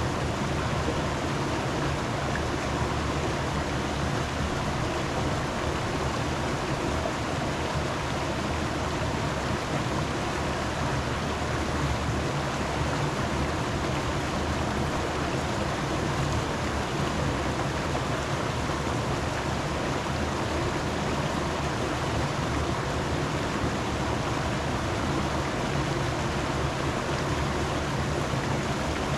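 Rushing water: a steady, even roar with no breaks or distinct events.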